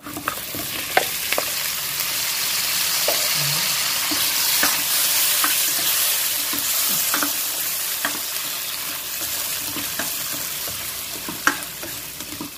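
Whole shrimp frying in butter with garlic and onion in a pan, a steady sizzle, with scattered clicks from a spatula stirring and turning them against the pan.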